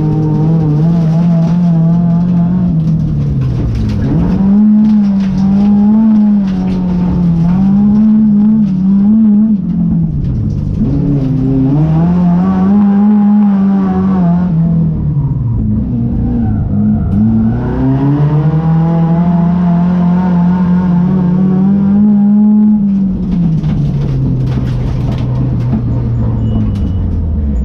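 Race car engine driven hard: its note climbs and drops again and again every couple of seconds, under a steady rush of noise.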